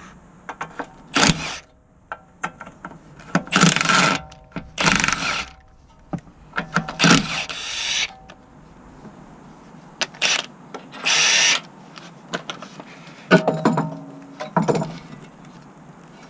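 Hand ratchet clicking in several short bursts, each under a second, with sharp metallic clicks of tools in between, as fasteners are worked on the car.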